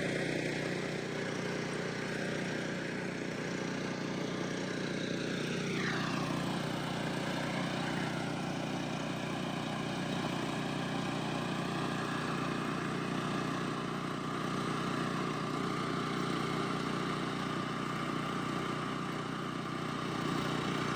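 A motor runs steadily throughout, with a steady low hum. About six seconds in a higher whine sweeps down in pitch.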